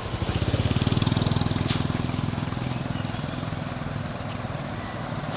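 A small engine running steadily with a fast, even pulse. It comes up about half a second in and slowly fades.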